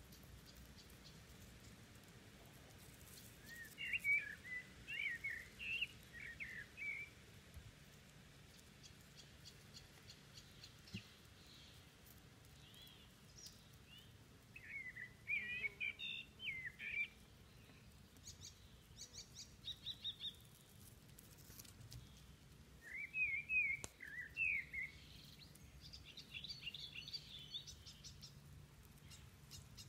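Songbird singing: three bouts of warbling song, each about three seconds long, with thinner, higher chirps in between and again near the end.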